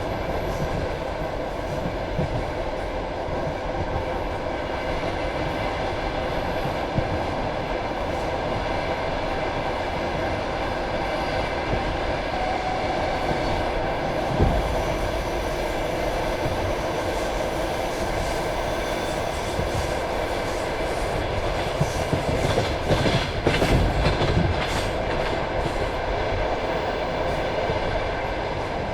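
Passenger train carriage rolling along the track: a steady rumble of wheels on rail with wheel clatter. There is one louder thump about halfway through and a run of sharper clacks about three-quarters of the way in.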